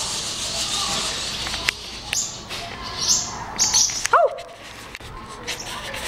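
Nestling birds chirping: several short, high-pitched chirps, with one lower rising-and-falling call about four seconds in.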